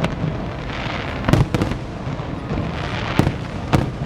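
Aerial fireworks shells bursting, about five sharp bangs in irregular pairs over a steady rumbling background.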